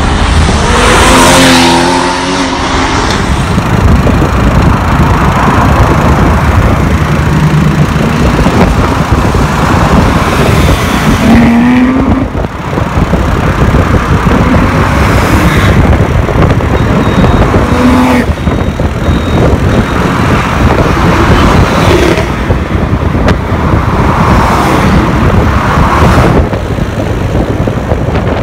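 Porsche sports cars, a 718 Boxster and a 911 GT3 among them, driving in convoy, engines running loud with a few short revs rising and falling in pitch over heavy road and wind noise.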